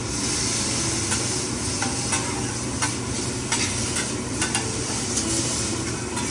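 Noodles sizzling on a hibachi flat-top griddle, with metal spatulas clicking and scraping on the griddle now and then.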